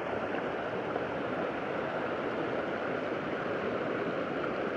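Waterfall running full after heavy rain: a steady, even rush of falling water.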